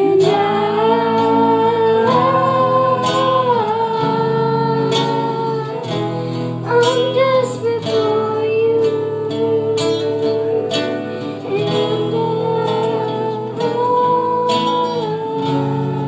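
A singing voice holding long, slow notes over strummed acoustic guitar chords.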